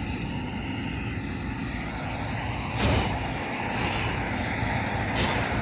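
Steady drone of a combine harvester running nearby, with several short puffs of breath, about a second apart, blowing chaff and straw off a grain-loss tray.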